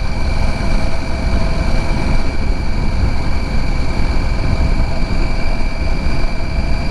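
Motorcycle, a Triumph Tiger 800, cruising at a steady speed: an even engine rumble with wind rushing over the on-board camera, and a few steady high whines over it.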